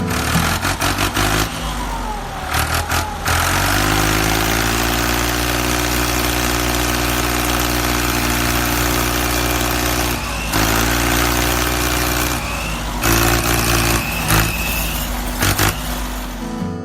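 An engine or motor running steadily. It breaks off briefly about ten seconds in, then runs on, and there is irregular clatter before it settles.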